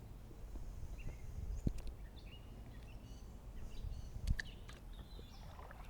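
Small songbirds chirping and calling over a low steady rumble, with two sharp clicks, about a second and a half in and about four seconds in.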